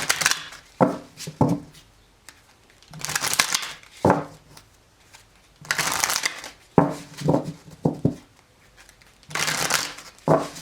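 A tarot deck being shuffled by hand: about four rustling bursts of cards, each roughly a second long, with short sharp card taps between them.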